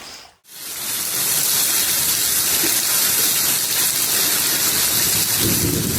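Steady hiss of rushing water that starts about half a second in, after a brief gap.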